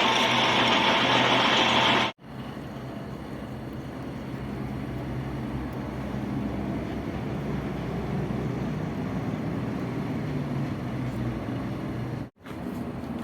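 Metal-turning lathe machining a steel flange: about two seconds of loud cutting noise with a high steady whine, then an abrupt cut to a quieter, steady running hum with a low drone, broken by another brief cut near the end.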